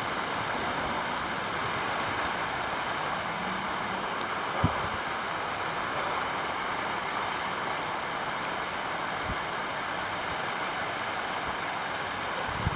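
Heavy rain falling steadily, a constant hiss, with a brief low thump about four and a half seconds in and a fainter one a few seconds later.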